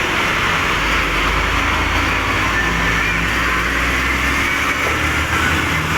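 Heavy truck passing on the highway, its low engine rumble over steady road traffic noise; the rumble fades out about four seconds in.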